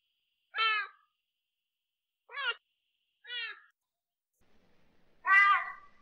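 Sunda clouded leopard meowing: four short calls, each falling in pitch, the last about five seconds in the loudest and longest.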